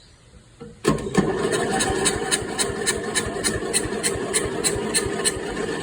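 A 12.5 hp Briggs & Stratton engine starts about a second in and runs roughly, with an uneven beat of about three to four knocks a second. The owner takes this for a stuck valve and no compression.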